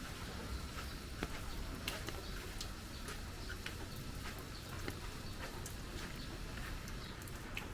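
Rain ambience: scattered drips and taps of rain over a low, steady rumble.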